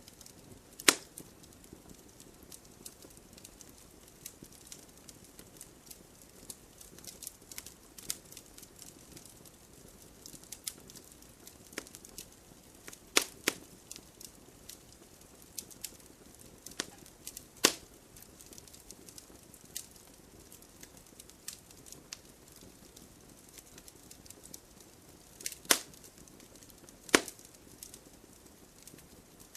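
Wood fire crackling in a fireplace: a low hiss with frequent small snaps and a handful of loud, sharp pops, about a second in, twice in the middle and twice near the end.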